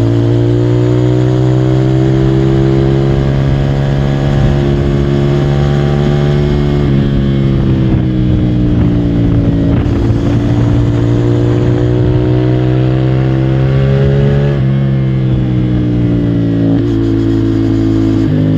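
CFMOTO 450SR's parallel-twin engine pulling under load, its pitch climbing slowly and then dropping sharply at gear changes, once about seven seconds in and again about fifteen seconds in.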